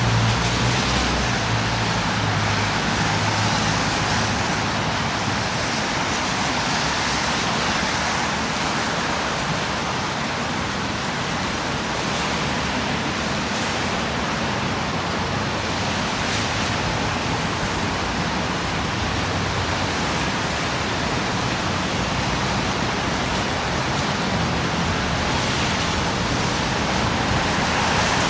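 Steady street traffic noise: an even hiss of passing cars, with a low engine hum in the first few seconds.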